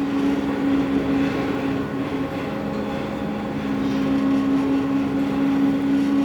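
Ship's engines and machinery droning steadily aboard a large car ferry, a hum of a few steady low tones over a rushing noise, heard inside the forward passenger saloon.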